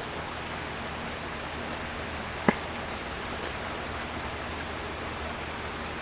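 Steady rain falling and pattering on surfaces, with one sharp drip or tap about two and a half seconds in.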